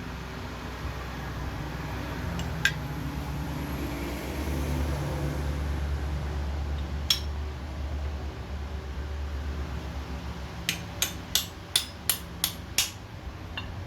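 Hammer striking metal: a single sharp strike, another a few seconds later, then a quick run of seven strikes about three a second, over a steady low hum.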